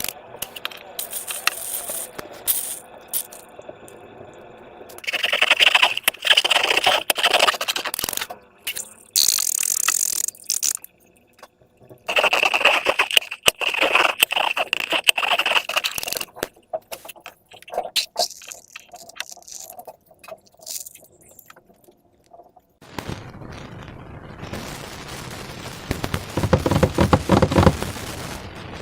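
Slime being handled and worked, making sticky crackling, clicking and scraping sounds in irregular bursts. Near the end it turns into a steadier rushing noise.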